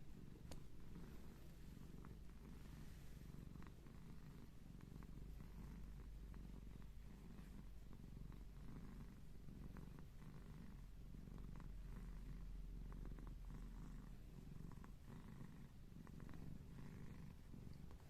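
A domestic cat purring steadily: a faint low rumble that swells and fades in a regular rhythm with its breathing.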